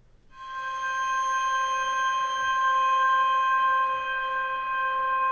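Glockenspiel chord from a software instrument run through two chained, fully wet reverbs with a reverb time of about 40 seconds: an ethereal sustained pad of several steady tones that swells in just after the start and then holds.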